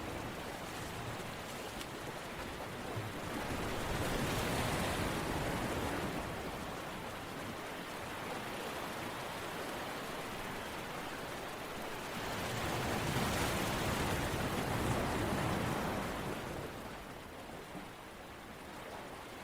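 A steady rush of water-like noise that swells twice, about four and thirteen seconds in, and eases off near the end, much like surf washing in and drawing back.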